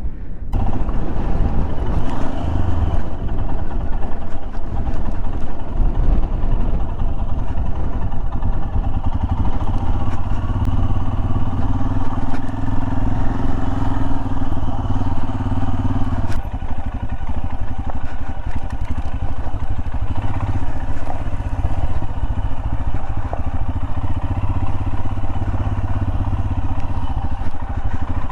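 Royal Enfield Himalayan's single-cylinder engine running steadily as the motorcycle is ridden off-road. About sixteen seconds in, a higher note in the engine sound drops out suddenly.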